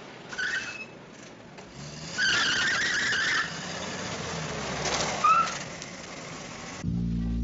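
A car driving with tyres squealing: brief squeals about half a second in and about five seconds in, and a longer screech about two seconds in lasting roughly a second. Music comes in near the end.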